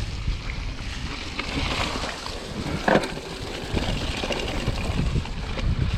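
Wind buffeting the microphone of a camera carried on a mountain-bike ride, a steady low rumble with a few light knocks and rattles from the bike on the trail, the clearest about three seconds in.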